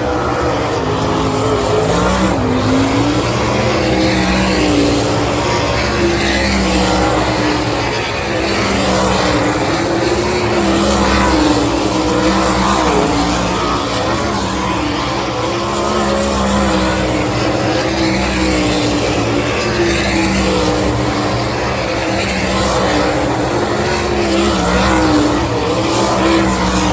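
Sprint car engines running laps on a dirt oval, loud and steady. Their pitch rises and falls every couple of seconds as the cars go through the corners and down the straights.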